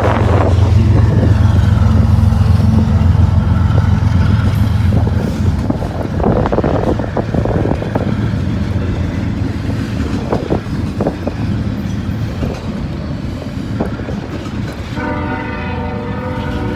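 CSX intermodal freight train passing close by: the lead diesel locomotives run loud for the first five seconds or so, then the cars roll past with scattered clicks and knocks of the wheels on the rails. A train horn sounds again near the end.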